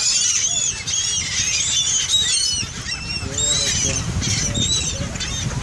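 Seagulls calling over one another, a dense run of short, high, arching cries, with a lower call about three seconds in.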